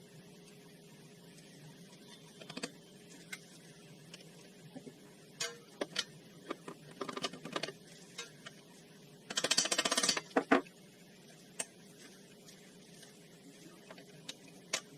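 Metal tools and parts clinking and knocking during hands-on ATV reassembly work. About two-thirds of the way through there is a denser rattle lasting about a second, the loudest sound here.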